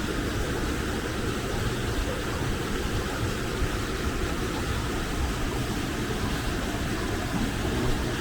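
Steady rushing of a waterfall pouring into a pool close by.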